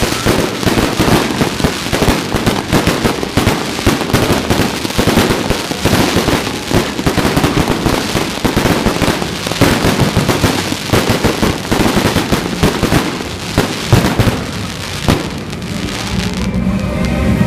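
A fireworks display: a dense, rapid string of crackling bangs and pops. Near the end the bangs thin out.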